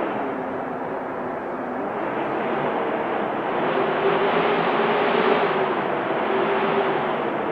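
Wind blowing steadily, swelling in the middle and easing again, with a faint low whistle for a few seconds.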